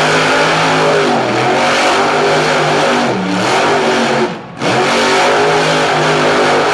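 Monster truck engine revving hard at full throttle, dropping off briefly about two-thirds of the way through before coming straight back on.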